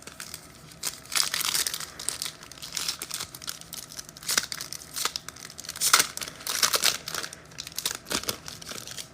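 Trading-card pack wrapper crinkling and tearing as a pack is ripped open and handled, in irregular rustles that come and go.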